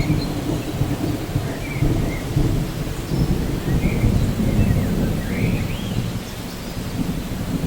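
Rainforest ambience: steady rain under a low, rolling thunder rumble, with a few faint bird chirps and short rising whistles over it.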